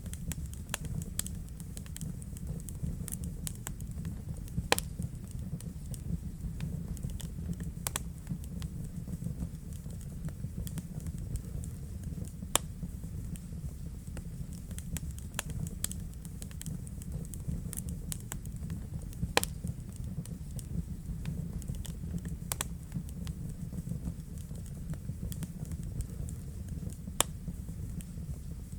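Wood fire crackling in a fireplace: frequent sharp snaps and pops over a steady low rumble of the flames, with a few louder pops standing out.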